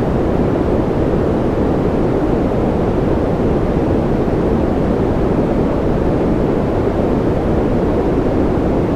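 Steady generated white noise, a deep even rush with most of its weight low and no change or droplet clicks.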